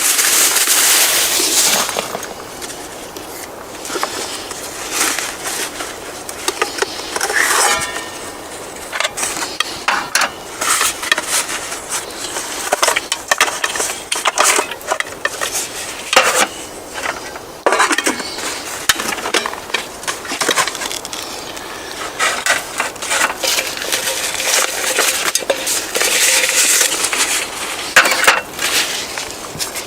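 Irregular crunching and clinking noises with scattered sharp clicks, and a louder rush of noise in the first two seconds.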